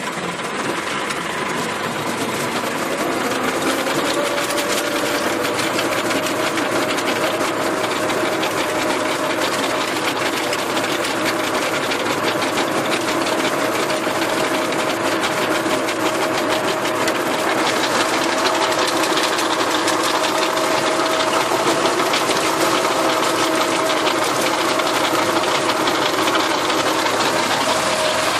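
Tractor diesel engine running steadily under load with a rotary tiller working, its pitch settling and holding level from a few seconds in.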